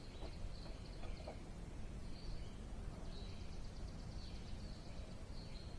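Faint birds chirping over a low, steady outdoor background noise, with a few short notes that fall in pitch.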